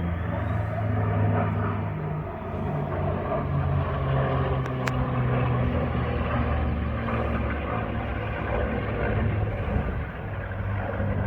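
Steady low engine drone whose pitch shifts now and then, with a faint thin tone dipping and rising in pitch near the start and a single short click about five seconds in.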